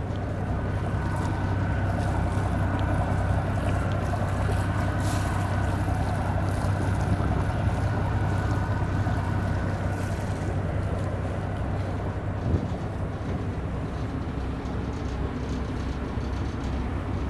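An engine running steadily, a low drone with a faint steady whine above it.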